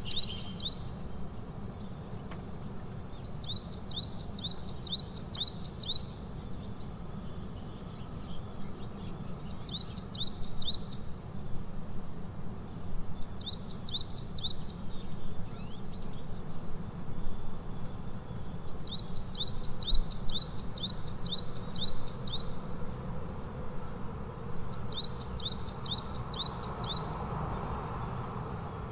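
A songbird singing short phrases of quick rising chirps, each a run of several notes. The phrases repeat every few seconds over a steady low background rumble.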